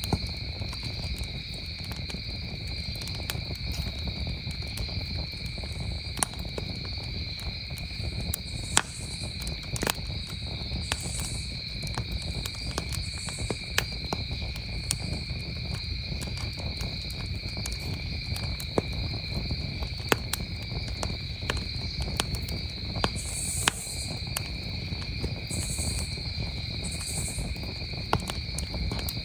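Crickets trilling steadily over a crackling campfire, with sharp pops and snaps at irregular intervals and a low rumble underneath.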